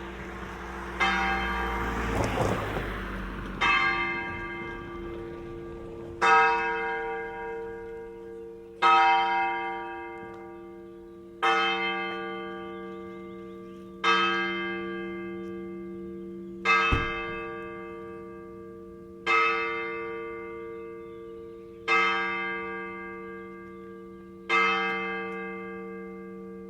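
A single church bell tolling slowly, struck about every two and a half seconds at the same pitch, each stroke ringing on and fading into the next. A short rush of noise comes under the second and third strokes.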